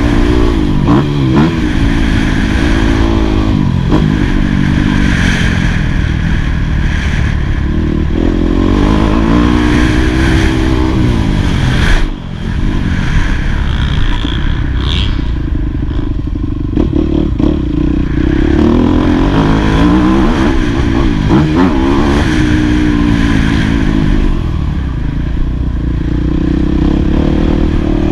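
2018 Yamaha YZ250F's four-stroke single-cylinder engine, ridden hard: it revs up and drops back again and again as the rider works the throttle and shifts. There is a brief sharp cut about twelve seconds in.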